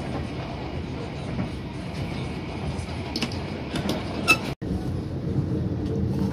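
Steady low rumble of a moving passenger train heard from inside the coach, with a few sharp clicks and a brief full break in the sound about two thirds through.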